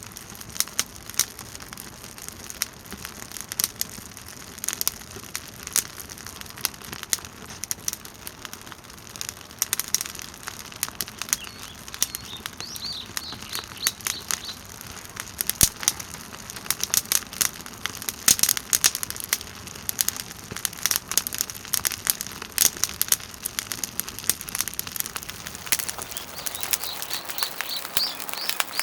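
Small wood fire crackling in a fire pit: a dense run of irregular pops and snaps over a low hiss. A bird chirps twice, briefly, about halfway through and again near the end.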